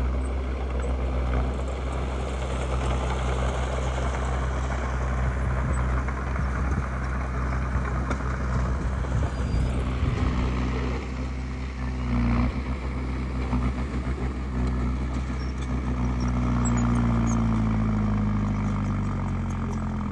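Diesel engine of a Komatsu D20P bulldozer running steadily at work, with a noisy mechanical rattle over the engine tone that is strongest in the first half. The engine pitch shifts down and back up in the last few seconds.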